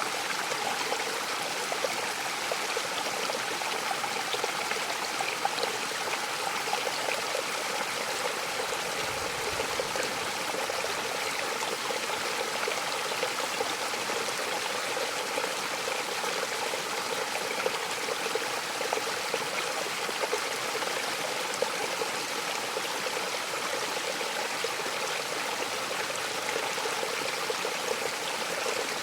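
Mountain waterfall: a steady, unbroken rush of falling and splashing water, even in level throughout.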